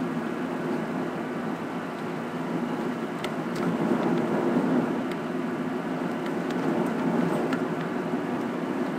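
Steady engine and road noise of a car heard from inside its cabin while driving, with a few faint ticks about three seconds in.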